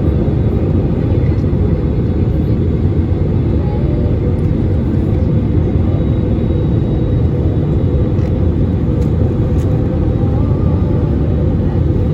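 Passenger airliner in flight, heard from inside the cabin: a steady, loud low rumble of engine and airflow noise.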